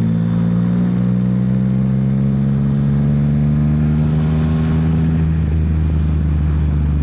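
Yamaha XSR900's three-cylinder engine running, its note sinking slowly for about five seconds and then holding steady at a lower pitch, as on easing off or slowing down.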